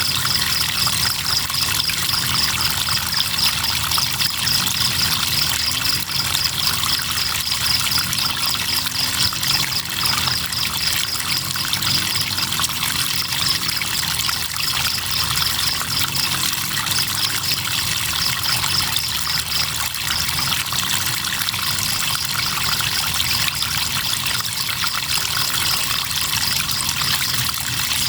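Crickets trilling in a fast, even pulse over the steady sound of flowing river water. The trill breaks off briefly about halfway through and again a little later, then resumes.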